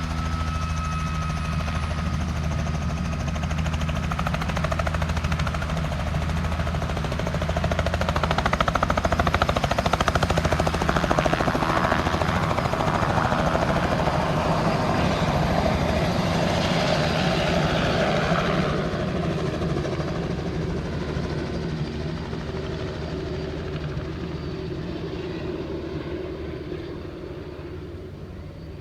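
Helicopter running close by: a steady low rotor and engine drone with a rushing noise that swells in the middle and then fades away towards the end.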